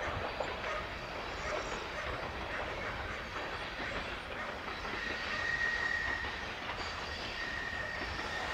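Freight train behind Rail Cargo Austria's 1116 072 electric locomotive approaching from a distance: a steady rumble of wheels on rail, joined about halfway through by a high, thin squeal that fades in and out.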